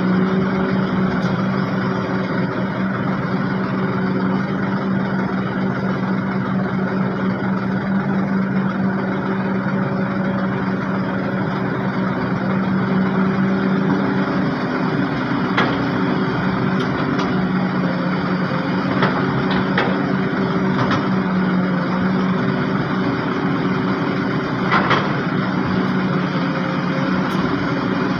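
Heavy diesel engines of dump trucks and an excavator running steadily, with a few short sharp knocks in the second half.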